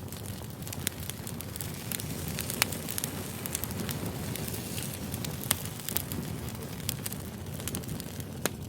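Campfire crackling: a steady low rush of burning wood with sharp pops scattered irregularly throughout.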